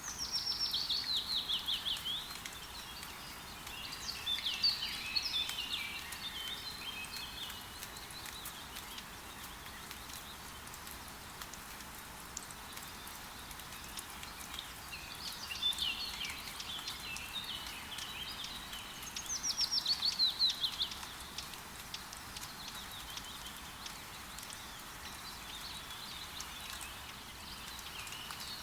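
Forest birdsong over a steady hiss of rain with scattered drop ticks. A songbird sings a fast descending trill twice, once at the start and again about two-thirds of the way through, with jumbles of chirps between.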